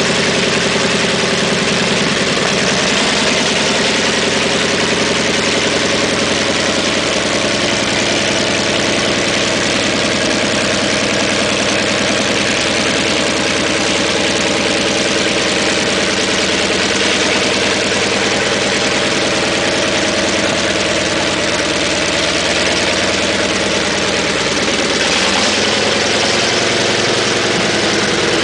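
Sherman tank engine running steadily at idle; its pitch sags briefly near the end, then recovers.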